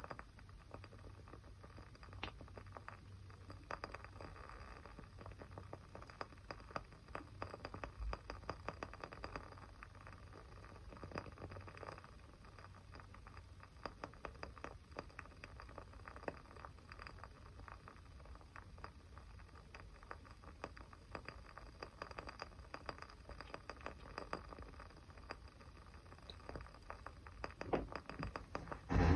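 A small fire crackling: dense, irregular small crackles with scattered louder pops.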